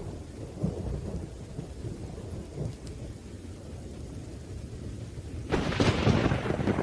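Thunderstorm: low rolling thunder rumbles under rain, then a sharp, louder thunderclap breaks about five and a half seconds in.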